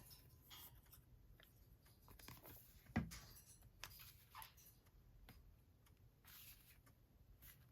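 Faint rustling and light taps of paper pieces being handled and laid on a journal page, with one sharper tap about three seconds in.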